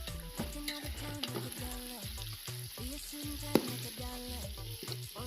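Chicken kasa frying and sizzling in a pot as it is stirred, with one sharp clank about three and a half seconds in. A music track with steady held notes plays underneath.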